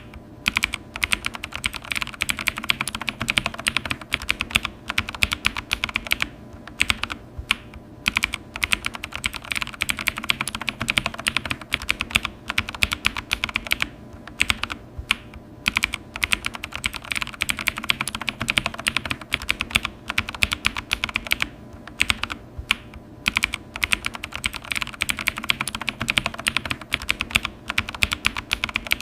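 Typing on a computer keyboard: rapid keystrokes in quick runs, broken by brief pauses.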